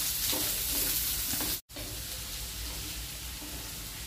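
Radish sticks sizzling in hot mustard oil in a pan on low flame, stirred with a wooden spatula that scrapes and turns them. The sound drops out for an instant about one and a half seconds in.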